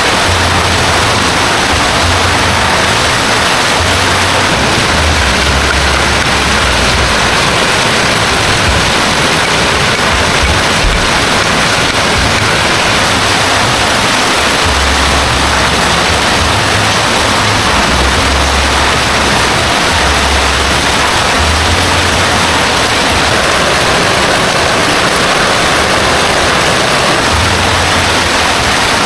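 Heavy rain falling as a loud, steady hiss, with a deep low rumble that comes and goes every few seconds.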